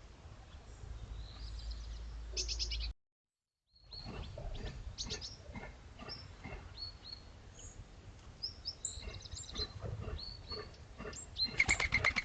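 Small garden birds chirping and calling: many short, high call notes, scattered and overlapping, over a low steady outdoor rumble. The sound drops out completely for about a second near three seconds in, and a louder flurry of chirps comes near the end.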